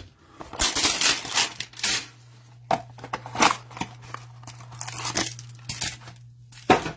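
A 2021 Panini Prizm football trading-card hanger box being torn open by hand: irregular tearing and crinkling of card stock and packaging over a low steady hum.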